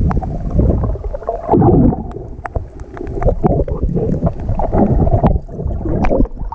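Muffled water sloshing and gurgling around a GoPro in its waterproof housing while snorkeling, a low rumble that swells and falls, with many scattered sharp clicks.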